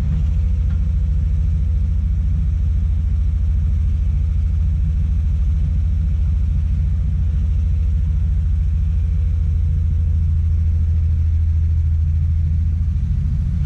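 Komatsu PC200 excavator's diesel engine running steadily with a deep, even rumble and a faint thin whine above it that fades out near the end.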